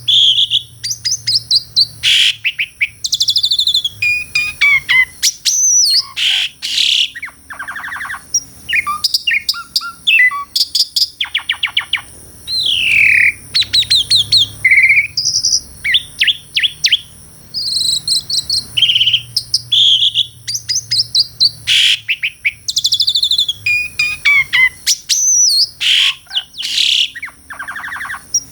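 Asian pied starling singing a loud, continuous, varied song of whistled notes that rise and fall, mixed with rapid chattering trills and clicky runs, with short pauses between phrases.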